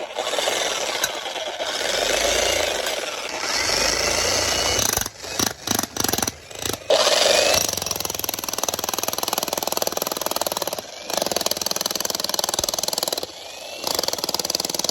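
Jackhammer hammering in long, rapid runs. It stops and restarts several times in quick succession about five to seven seconds in, and pauses briefly twice near the end.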